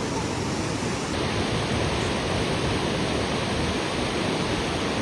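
Steady rush of falling water from Ouzoud Falls, an even, unbroken noise that shifts slightly in character about a second in.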